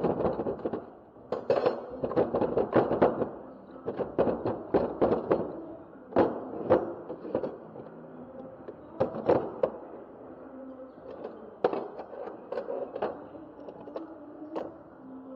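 Metal transmission parts and hand tools clicking and clanking during the strip-down of a Honda manual gearbox. The strikes come in quick irregular clusters, with a few louder single knocks.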